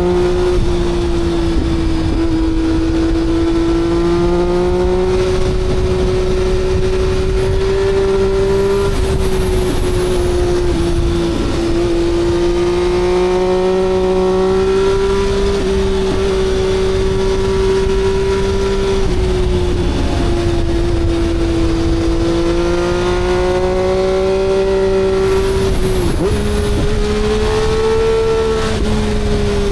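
Three-cylinder engine running hard at high, nearly steady revs, its pitch drifting slowly up and down.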